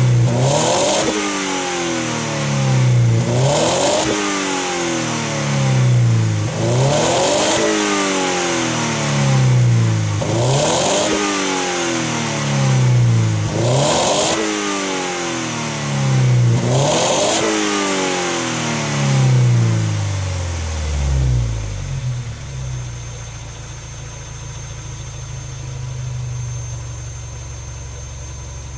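Subaru Impreza G4's boxer four-cylinder engine revved through a modified Kakimoto aftermarket muffler: about seven quick blips, one every three seconds or so, each rising sharply and falling back, then settling to a steady idle about two-thirds of the way through. The owner finds the exhaust note sounds restrictive, as if it does not flow freely.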